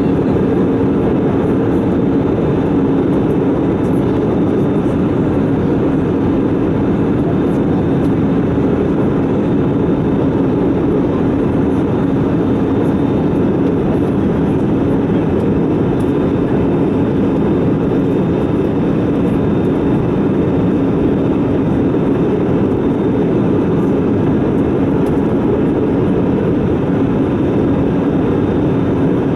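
Steady in-flight cabin noise of an Airbus A320: engine and airflow noise with a low steady hum, unchanging throughout.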